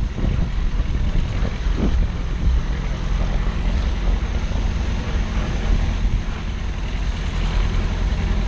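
Steady low vehicle engine rumble with wind noise on the microphone, as heard while riding along.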